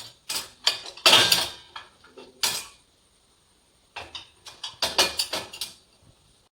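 Dishes and cutlery clattering and clinking as freshly washed, dry utensils are handled in a dishwasher's racks. The knocks come in two runs with a pause of about a second between them.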